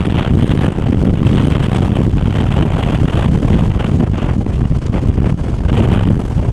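Strong storm wind buffeting the microphone: a loud, gusting low rumble that swells and falls without pause.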